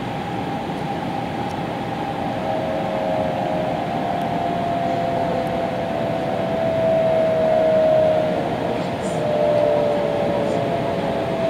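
Cabin noise of a JR Kyushu N700 series Shinkansen slowing into a station: a steady rumble with a high whine from the traction motors that slowly falls in pitch as the train brakes.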